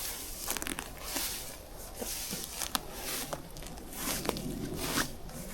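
Footsteps walking through grass, a swish with each stride at about one step a second, with small sharp cracks and ticks between the steps.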